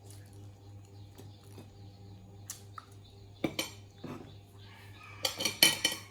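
Hard objects clinking and clattering: a few scattered knocks, then a quick, loud cluster near the end.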